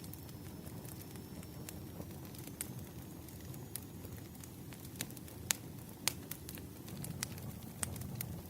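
Firewood burning with a steady low rumble and scattered sharp crackles and pops, the loudest pops about five and a half and six seconds in.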